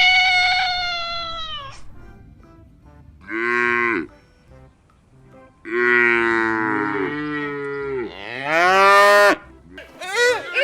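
A cat meows at the start, a drawn-out call of about two seconds that falls at the end. Then a cow moos three times: a short moo, a long low moo, and a last moo that rises in pitch.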